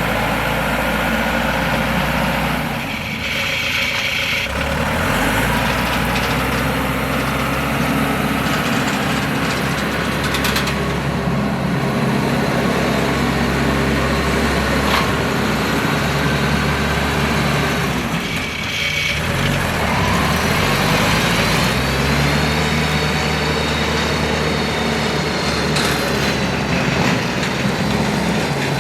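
50 HP diesel engine of a 5-ton rubber-tracked dumper running, its speed shifting up and down several times. A thin high whine rises above it now and then, mostly near the end.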